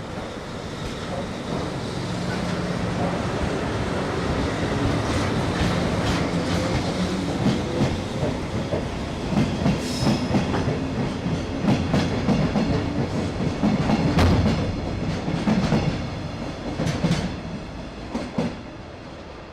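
Freight train of Chiki flat wagons behind an EF65 electric locomotive rolling past, its steel wheels clattering over rail joints with a steady rumble. The rumble builds over the first few seconds and the clacking thins out and fades near the end.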